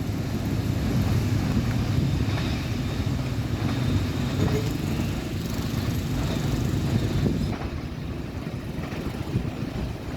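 Freight train rolling past, a steady low rumble that eases a little near the end.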